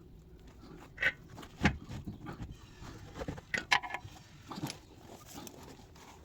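A few scattered knocks and light metallic clinks, as of tools and metal engine parts being handled and set down, with a small cluster of clinks a little over halfway through.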